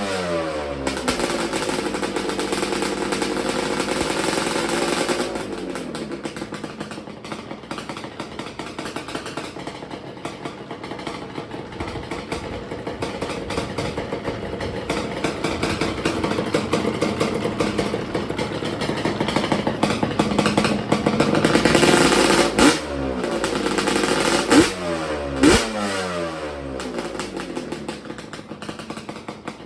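Yamaha Banshee's twin-cylinder two-stroke engine through Toomey T5 expansion-chamber pipes, held at raised revs for about five seconds, then dropping to idle. Near the end it is revved up again and blipped sharply three times before settling back to idle.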